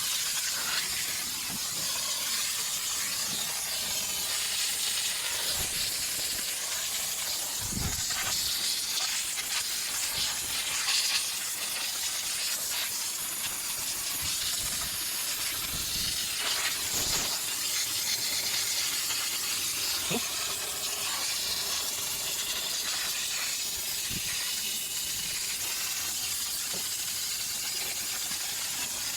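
Steam cleaner jet hissing steadily as steam is sprayed over an engine, with a few brief low thuds.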